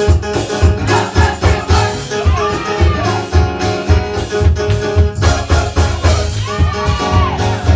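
Gospel choir singing with a live band, over a steady, driving beat of drums and bass.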